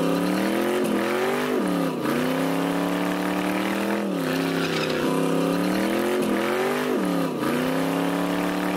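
Car engine held at high revs during a burnout, its pitch climbing slowly and dropping sharply several times, over a hiss of spinning tyre.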